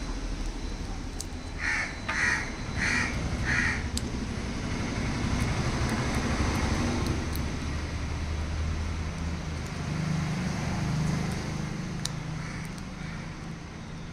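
A bird calls four times in quick succession a couple of seconds in, over a steady low background rumble that swells and fades through the middle.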